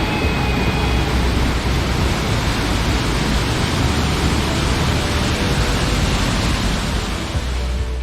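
Steady, loud rush of water falling at a waterfall.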